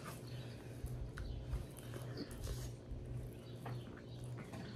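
A person chewing and eating sauce-coated chicken nuggets fast, with scattered small clicks and smacks, over a steady low hum.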